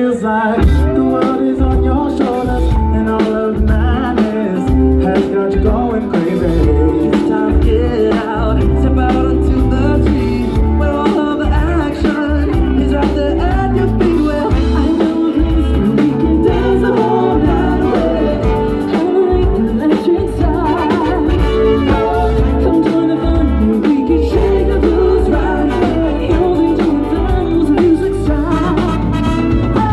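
Live band music with singing and a steady driving beat.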